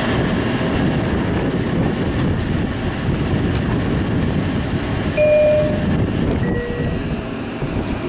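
Long Island Rail Road electric commuter train running at the platform with a steady rumble. About five seconds in comes a two-note chime, high then lower.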